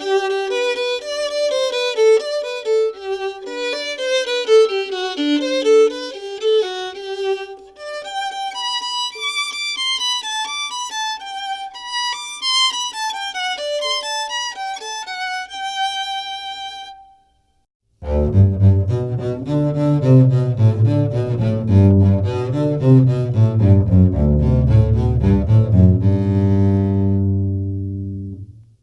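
A violin plays a bowed melody of quick, high notes for about seventeen seconds and then stops. After a short pause, a double bass plays a low bowed melody, fading out near the end.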